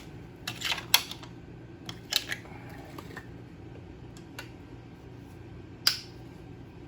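Hand tools and small hardware clicking and clinking as the bolts come out of the timing belt cover of a Ducati Pantah engine: a cluster of taps about a second in, two more around two seconds, and single sharp ticks near four and a half and six seconds, over a low steady hum.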